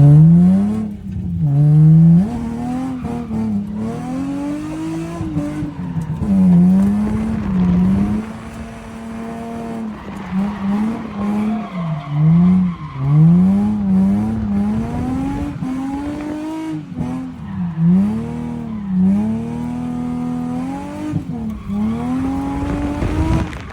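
A drift car's engine revving hard, its pitch climbing and dropping again and again, with tyres squealing as the car slides.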